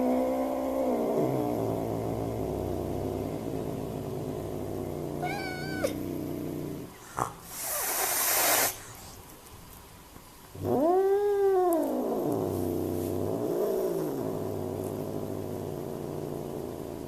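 Angry domestic cat growling in a long, low, drawn-out moan. Partway through it gives a short, higher wavering cry and a sharp hiss, then a loud yowl that rises and falls before the low growl carries on.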